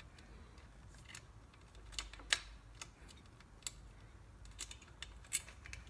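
Irregular light clicks and taps from a small hook and cable being worked through an e-bike frame by hand.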